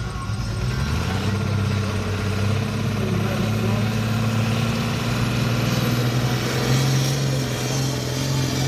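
Turbocharged pulling tractor's engine building up revs before a pull: the engine note climbs about a second in and then holds high and steady, with a faint high whine rising in pitch in the second half.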